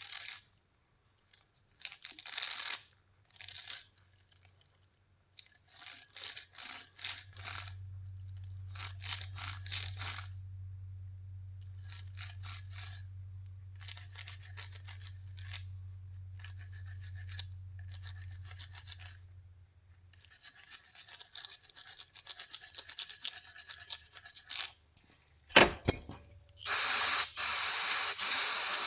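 Quick, scratchy brushing strokes in repeated bursts, scrubbing the threads of a brass pipe-thread fitting clean, with a low steady hum through the middle. Near the end a sharp knock, then a couple of seconds of loud hissing spray.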